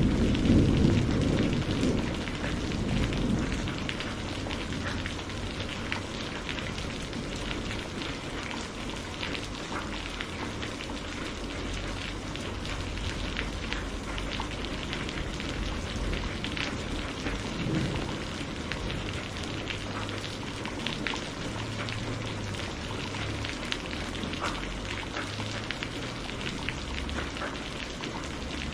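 Steady rain falling, with many individual drops ticking close by. A thunder rumble fades away over the first few seconds.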